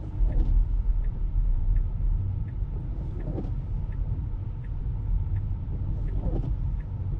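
Low steady cabin rumble inside a Tesla, with the turn signal ticking quickly and evenly, and a brief swish of the windshield wipers about every three seconds.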